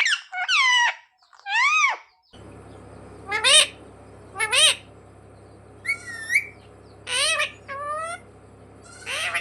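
A pet Indian ringneck parrot giving a string of about eight short, pitched calls, each bending up and down in pitch. About two seconds in, a steady low hum starts underneath.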